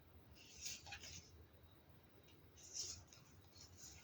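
Near silence broken by a few faint, short rustles of tarot cards being handled, a cluster just under a second in and one more near three seconds.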